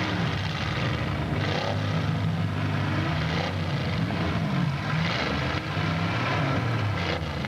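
Several demolition-derby car engines running and revving together, their pitches rising and falling over one another.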